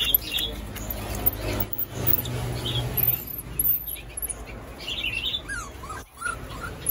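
Small birds chirping in short, scattered high calls and quick falling notes, over a low steady hum.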